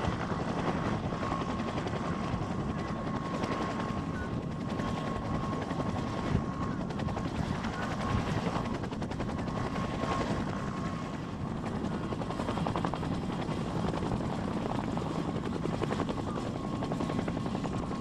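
Helicopter running steadily, a dense rotor and engine noise with a thin high turbine whine held throughout.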